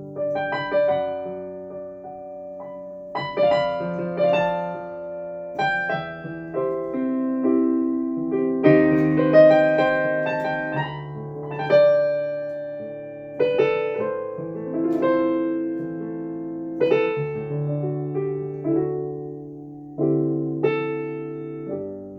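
Solo piano playing slow chords, each struck and left to ring and fade, a new one every second or two.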